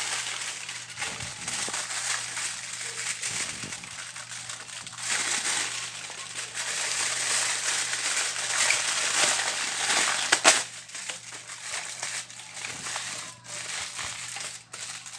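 Aluminium foil crinkling and crumpling as it is wrapped by hand, irregular and loudest in the middle, with a sharp crackle about ten seconds in.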